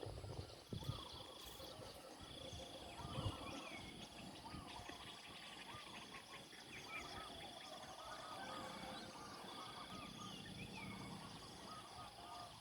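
Outdoor morning ambience of many faint bird calls and chirps, with a steady high-pitched insect drone that stops and starts several times.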